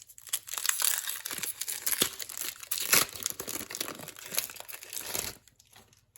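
A trading card pack's wrapper being torn open and crinkled in the hands: a dense run of crinkles and tearing that stops about five seconds in.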